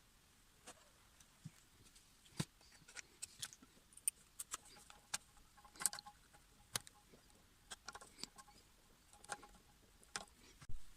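Irregular light clicks and taps, a dozen or more with a few louder knocks, as of small metal parts and tools being handled.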